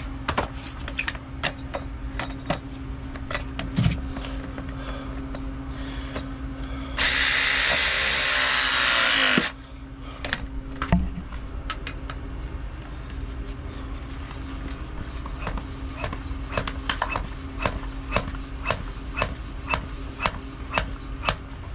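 A power tool runs for about two and a half seconds with a high whine, then winds down, in the middle of a stretch of clicks and knocks from tools being handled. A steady low hum runs underneath.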